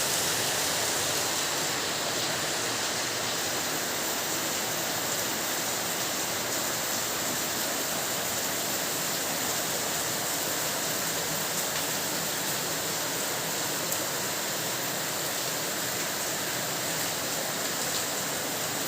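Steady heavy rain, a dense even hiss of water without pause.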